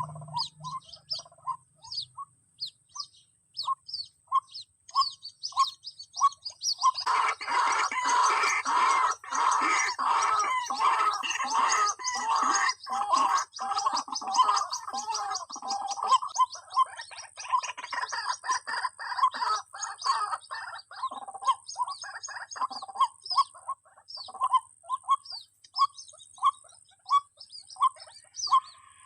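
Calls of white-breasted waterhen chicks played from an MP3 recording as a lure: short peeps repeated about once a second, with higher chirps over them. From about seven seconds in, a dense stretch of overlapping calls swells, then thins out again after about twenty-three seconds.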